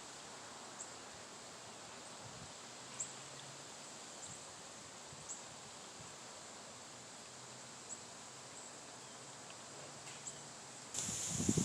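Steady hiss of gusty wind through trees, with a faint high insect drone and a brief chirp every second or two. Near the end a strong gust hits the microphone, setting off loud buffeting.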